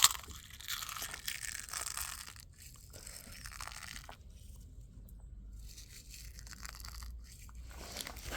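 A sharp crack, then crunching and crackling for a couple of seconds, then quieter rustling: a raw egg smashed by hand and its shell crushed into grain pigeon feed.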